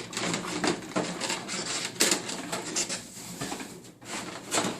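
Packaging being handled and items lifted out of a cardboard box: irregular rustling, scraping and light knocks throughout.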